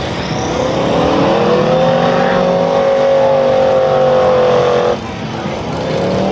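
A mud vehicle's engine revs up hard and is held at high revs for about three seconds, then drops off suddenly about five seconds in. It revs up again near the end.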